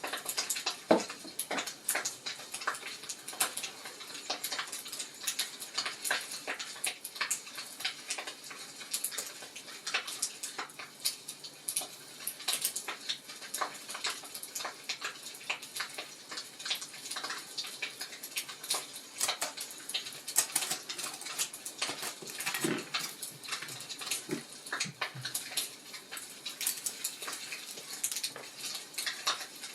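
Wood fire crackling: a dense, irregular run of small snaps and pops, with a few louder pops among them.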